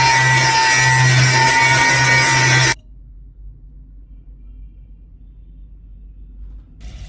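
Power tool running with a steady whine over rough grinding noise, likely working the rusty blade, cut off abruptly under three seconds in, leaving only a faint low hum.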